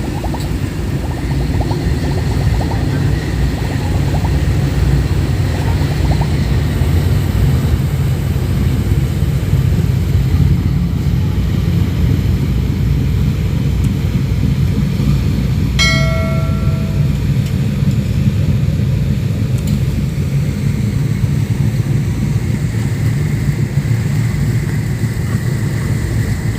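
Steady low rumble of ship diesel engines. About sixteen seconds in comes a brief high-pitched toot, roughly a second long.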